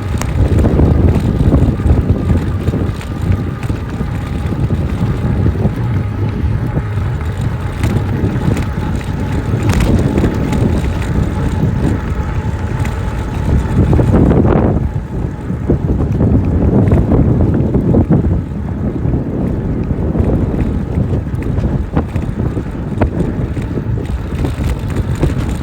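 Wind buffeting the microphone while a Jasion EB7 e-bike rides along a trail, with tyre noise and a faint steady whine underneath.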